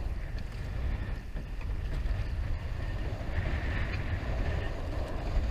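Wind buffeting the microphone: a heavy, uneven low rumble over a steady hiss, with a faint high whine joining about halfway through.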